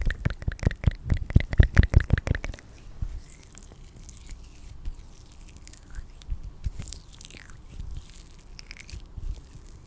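Close-miked ASMR trigger sounds: a quick, dense run of clicking and crackling for the first two and a half seconds, then sparse, faint clicks.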